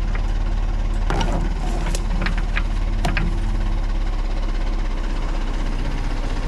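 Backhoe's diesel engine running steadily, with a few short clanks about one to three seconds in.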